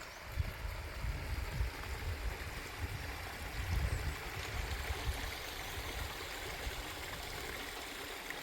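A stream running with a steady rush of water, with low thumps in the first half that fade out.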